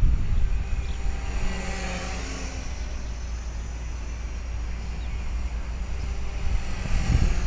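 Gusty wind buffeting the microphone: a steady low rumble with faint fluctuating noise.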